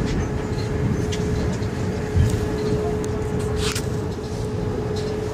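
Tour boat's engine running with a steady low rumble and a constant hum, with a brief thump about two seconds in.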